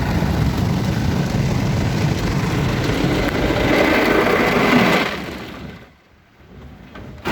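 Istobal M'nex 22 in-bay car wash working over the car, heard from inside the cabin: a loud steady scrubbing and spraying noise from its brushes pressing against the car. The noise swells about four seconds in, fades away to almost nothing about six seconds in, and comes back suddenly near the end.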